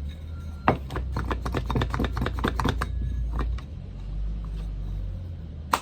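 Small metal parts of a pneumatic siding nailer clicking and tapping while it is reassembled: a quick run of light clicks for about three seconds, then one sharp click near the end, over a steady low hum.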